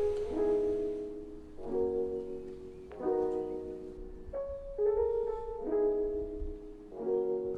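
Background piano music: soft chords struck about every second and a half, each left to ring and fade.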